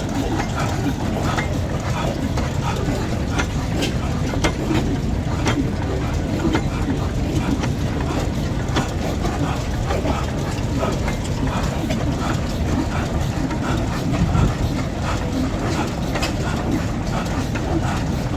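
Machinery running with a steady low rumble and frequent irregular clicks and knocks.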